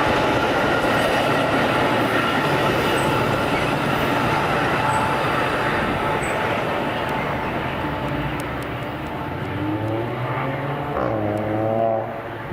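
A passing train's wheels and rail noise, a steady wideband rumble that slowly fades. Near the end a rising engine note swells and cuts off sharply.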